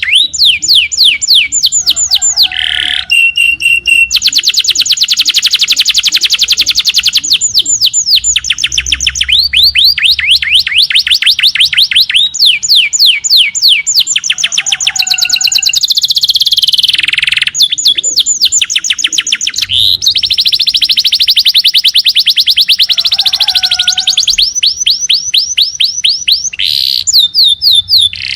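Small songbird singing loud, rapid trills of descending whistled notes, many per second, in long runs broken by short pauses and brief lower calls. The same phrase sequence comes round again about every twelve seconds, as in a looped masteran recording.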